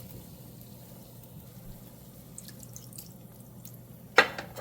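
Watery chili-tomato sauce in a pan on the stove, heating after water was poured in, with a few faint small pops and ticks, then a single sharp knock against the pan about four seconds in.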